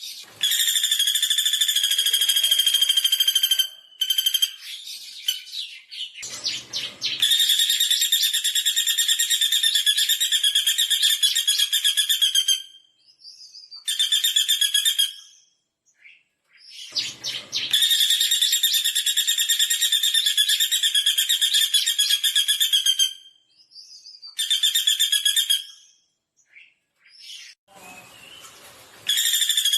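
Pelatuk bawang woodpecker calling: long, fast, high-pitched trills repeated in bouts of one to five seconds with short pauses between them.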